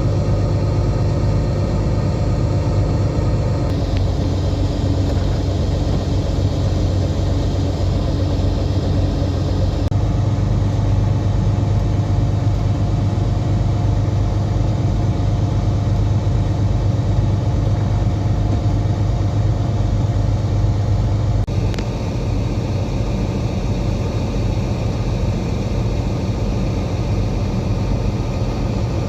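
Heavy truck's diesel engine running steadily, its low drone shifting slightly a few times.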